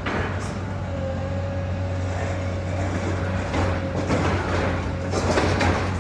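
Demolition excavator's diesel engine running steadily, a low hum with a faint steady tone above it. Sharp knocks and clatters come in from just past halfway, thickening near the end as material is worked.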